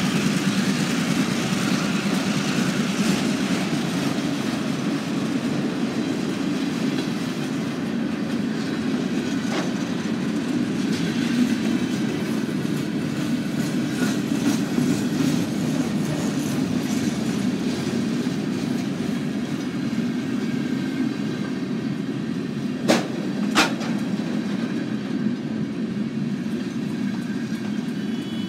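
Freight cars of a long train rolling past steadily, their wheels rumbling on the rails. Near the end come two sharp clacks a moment apart.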